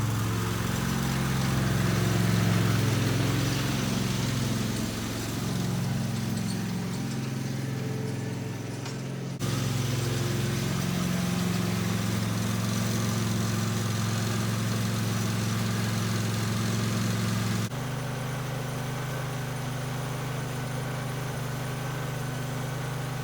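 Bolens garden tractor's 18 hp twin-cylinder Vanguard engine running, its pitch wavering up and down over the first part. The engine sound changes abruptly twice, about nine and eighteen seconds in, then runs steadily.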